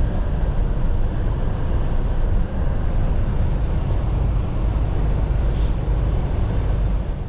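Steady low rumble of a 2024 Freightliner semi truck cruising on the highway, heard from inside the cab: engine drone mixed with road and tyre noise.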